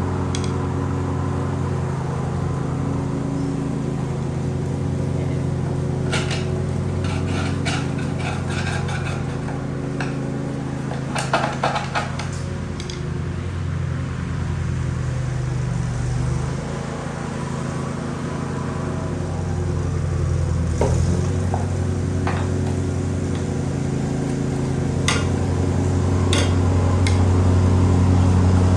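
Small single-cylinder engine running steadily at an even speed, with scattered metallic clinks and clanks over it.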